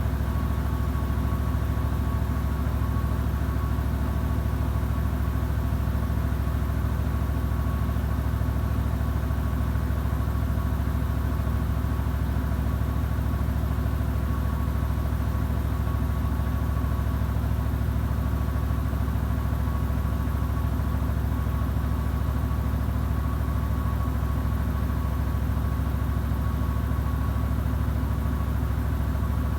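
Samsung WW90J5475FX/AH front-loading washing machine with a Digital Inverter motor, its drum spinning at a constant speed: an even low hum with a faint steady whine over it.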